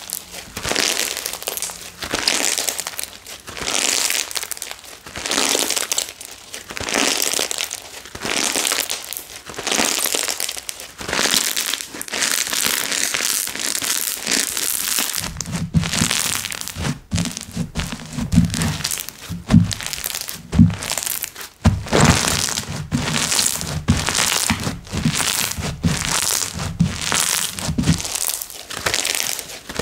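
Slime being squeezed and worked by hand, giving crackly, crinkling sounds in even pulses about once a second. About halfway through, deeper squashing thuds join in and the strokes come faster.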